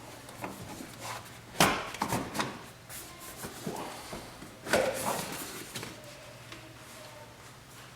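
Plastic interior trim of a Tesla Model 3 being worked loose by hand: scattered clicks and rubbing, with two sharper knocks about one and a half and four and a half seconds in.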